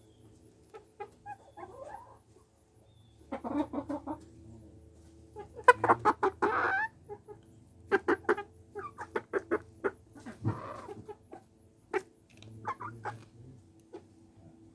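Polish chickens clucking in short clustered bursts, with a louder, longer call about six seconds in.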